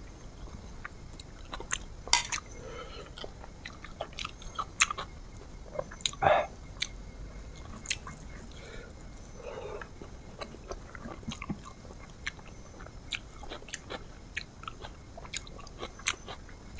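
A person chewing and biting food, many short mouth clicks and crunches, with a louder one about six seconds in.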